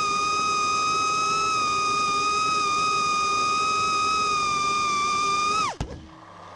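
Brushless motors and propellers of an ImmersionRC Vortex 150 Mini racing quadcopter whining at a steady high pitch. Near the end the whine drops sharply in pitch as the motors spin down, leaving a faint low hum.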